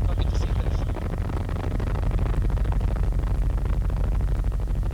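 Helicopter engine and rotor noise heard inside the cabin: a steady low rumble.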